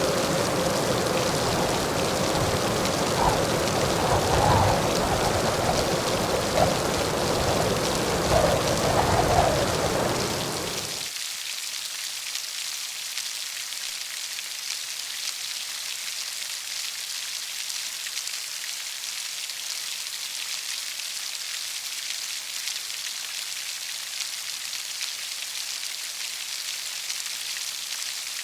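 Steady heavy rain hissing. For about the first ten seconds it sits over a deeper rumbling layer with wavering tones, which cuts off suddenly, leaving only the bright hiss of the rain.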